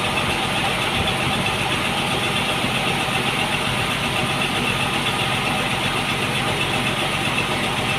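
Sawmill engine running steadily at an even idle, with no change in speed.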